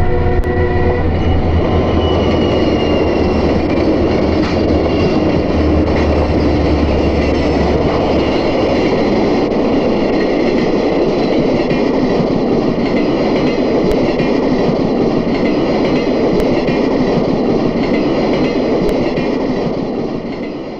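Diesel-hauled train passing close by: a horn chord cuts off about a second in, a deep engine rumble runs for the first several seconds, and steady rolling wheel-and-rail noise continues until it fades out at the end.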